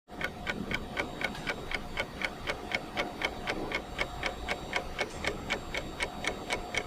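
Clock-ticking sound effect, a steady run of sharp ticks about four a second, used as a thinking-time timer after a quiz question.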